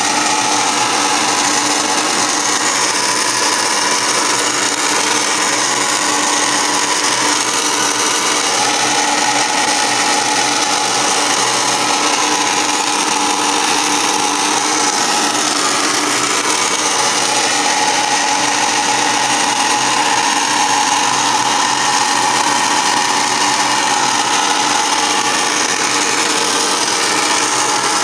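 Home furnace running at start-up with a steady, loud mechanical whirring noise and a low hum underneath, the noise the owner is recording.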